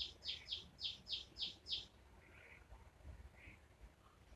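A bird chirping: a quick run of short, falling notes, about three a second, that stops about two seconds in. Two fainter calls follow.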